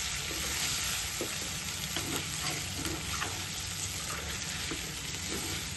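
Chicken pieces frying in oil with spices in a pan, sizzling steadily, with light taps and scrapes of the utensil stirring them.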